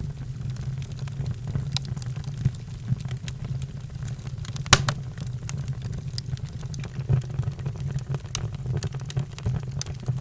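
Wood fire crackling, with irregular sharp pops and snaps over a low steady rumble; the loudest pop comes about five seconds in.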